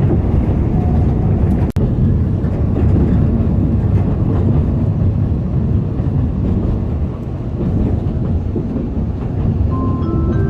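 Narrow-gauge Alishan Forest Railway train running, heard from aboard as a loud, steady low rumble of the carriage on the track. The sound cuts out for an instant about two seconds in. Near the end, a few steady tones begin, stepping upward.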